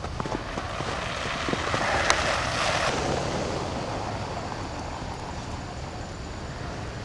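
A passing vehicle on a snowy street: a rushing noise that swells to a peak about two to three seconds in, then slowly fades away.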